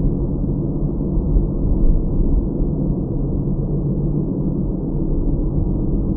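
Steady low rumble of a car driving: road and engine noise picked up by a dash cam inside the car, with a faint steady hum under it.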